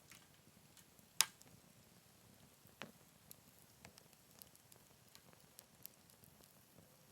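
Wood fire burning in a Picogrill 398 fire pit: faint scattered crackles, with a sharp pop about a second in and a smaller one near three seconds.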